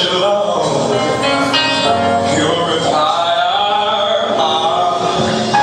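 Gospel song with a male lead vocal holding and bending long sung notes over the backing music.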